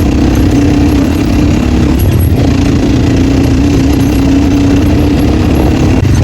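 Dirt bike engine running at fairly steady revs through an open exhaust with the dB killer removed, with a brief dip in revs about two seconds in.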